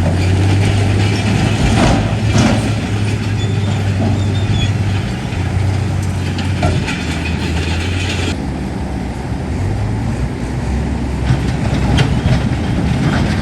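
Bulldozer's diesel engine running steadily, with scattered metallic clanks from its crawler tracks.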